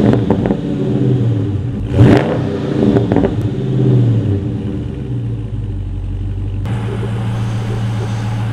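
392 HEMI V8 engine revving in short sharp blips, about two and three seconds in, then settling into a steady idle.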